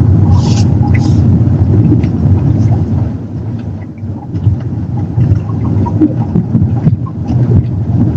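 A car in motion heard from inside: a steady low rumble with scattered short ticks and knocks through it. This is the body noise from the rear of a new car, which the owner traces to a loose part at the back that stops the noise once tightened.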